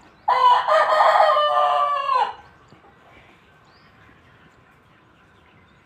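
Desi rooster crowing once, a single loud crow of about two seconds that drops in pitch at its end.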